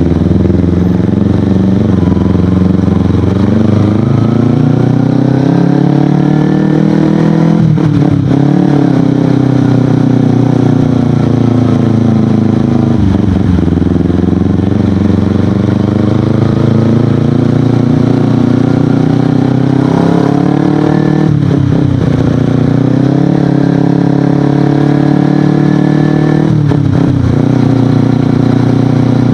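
Kawasaki Ninja 250FI motorcycle with an Akrapovic aftermarket exhaust, accelerating on the road. The engine note climbs steadily in pitch and drops sharply at each gear change, about four times.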